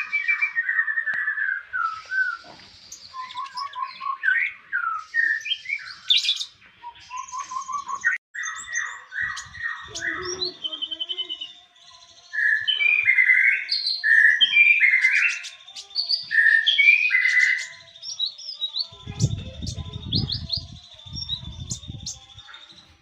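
Konin songbird singing a varied masteran song: quick chirps, repeated trilled notes and short whistles in fast-changing phrases. Low rumbling thumps come in near the end.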